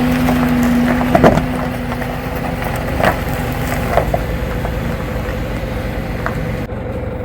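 Jeep engine running as it is driven off slowly, with sharp snaps and crackles of sticks and brush breaking under the tyres about a second in and again around three and four seconds in.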